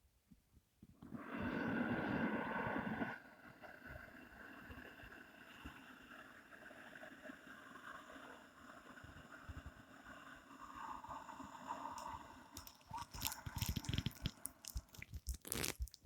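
A person's audible breathing during a slow qigong breath cycle: a loud, noisy breath lasting about two seconds, starting about a second in, then a long, much quieter breath. Near the end come several short clicks and rustles.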